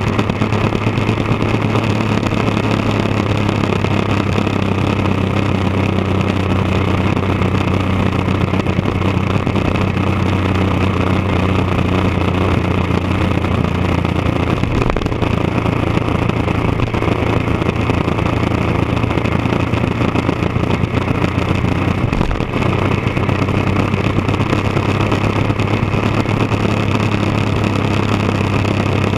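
1999 Triumph Daytona 955i's three-cylinder engine running at a steady speed through an aftermarket D&D exhaust. It holds an even note that dips slightly twice.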